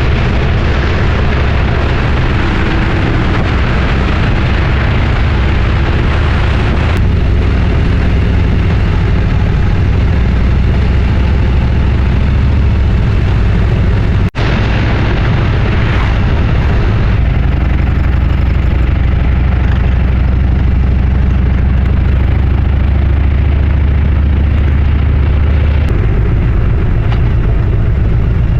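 Motorcycle riding at road speed, the engine's steady running buried under heavy wind rumble on the microphone. The sound drops out for a split second about halfway through.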